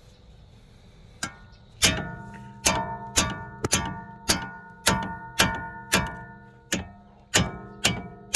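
Repeated hammer blows on a metal part, about a dozen strikes at roughly two a second, each one ringing on at the same pitch.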